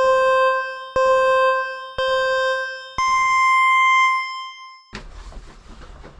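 Countdown beeps like a time signal: three short electronic tones a second apart, then a longer tone an octave higher that stops sharply. After it comes a click and faint background noise.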